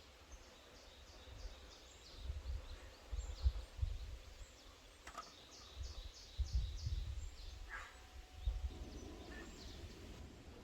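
Wild songbirds singing in mountain woodland: series of short, high notes repeated in quick runs, under a low rumbling noise. A low steady hum comes in near the end.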